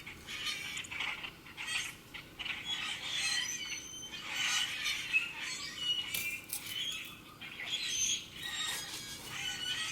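Wild birds chirping and calling: many short, overlapping high notes and whistles throughout.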